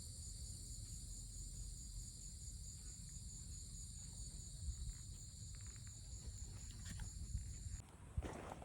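Faint, steady high-pitched chirring of crickets, which cuts off abruptly near the end.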